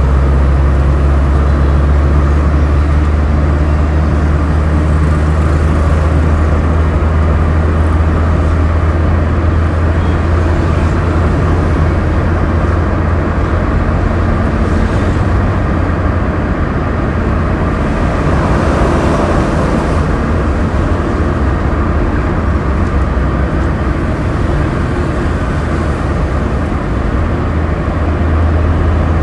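Steady road-vehicle noise: a continuous low engine rumble with road noise over it, holding level throughout.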